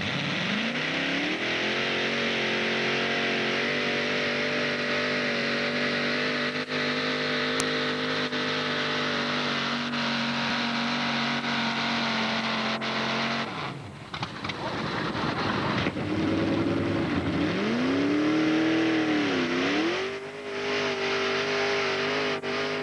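Mini modified pulling tractor's engine revved up and held at high, steady revs under full throttle; about two-thirds through the engine note drops away, then climbs again, dips once and holds high.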